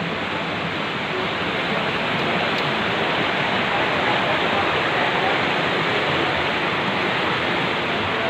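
Waterfall: falling water rushing in a steady, dense roar.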